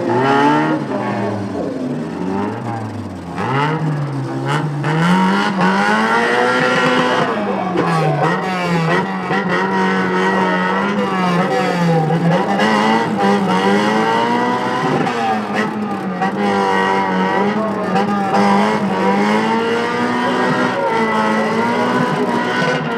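Several race car engines running hard on track, their pitch dipping and climbing again every few seconds as the drivers lift off and accelerate.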